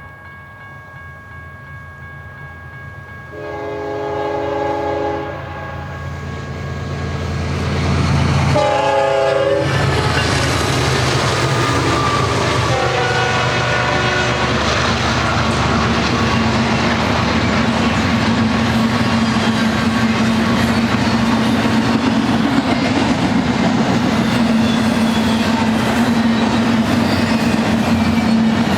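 BNSF diesel freight train approaching and sounding its multi-chime air horn: a blast about three seconds in, a louder one about eight seconds in and a fainter one around thirteen seconds in. The locomotives and cars then pass close, a loud steady rumble with clickety-clack of wheels over the rail joints.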